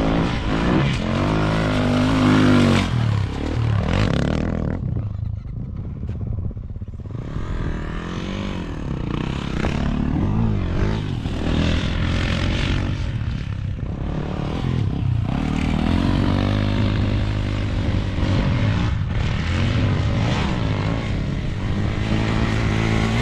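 Dirt bike engine running hard, its pitch rising and falling again and again as the throttle is worked.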